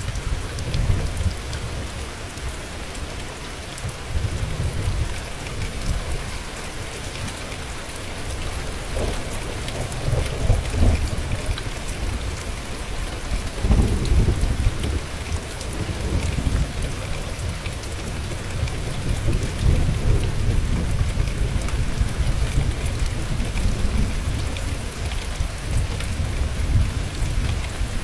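Steady heavy rain falling, with low rolling thunder that swells and fades several times.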